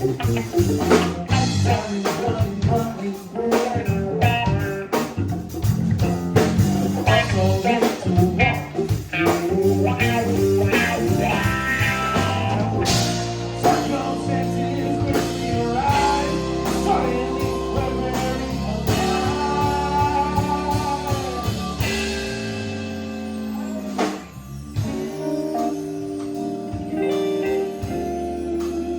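A band playing live blues-rock: electric guitar leading over bass and drums, busy and percussive at first, then settling into held chords with a short break about 24 seconds in.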